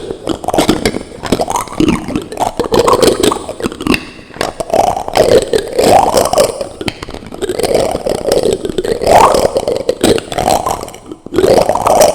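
Plastic utensils scraped and tapped directly on a microphone: continuous close scratching and clatter with many small clicks, easing off briefly near the end.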